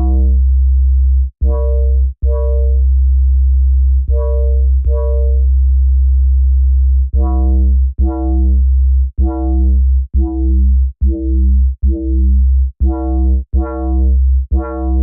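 Synthesized dub bass patch in Arturia Pigments played as a riff of about seventeen short notes over a deep, almost continuous low tone. The notes carry the metallic, bell-like overtones the patch gets from phase modulation.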